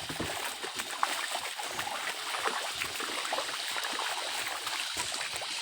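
Water of a small jungle stream running and trickling steadily.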